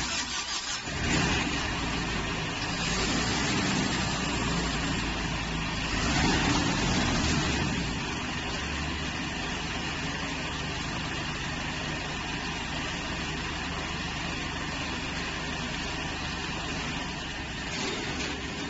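Corn harvester running: its engine and harvesting machinery give a steady mechanical noise, a little louder in the first several seconds, then even.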